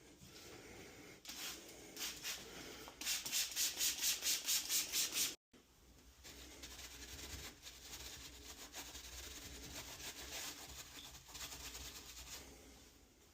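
Scrubbing with a brush: rapid, even back-and-forth strokes about five a second, then after a cut a softer, irregular rubbing.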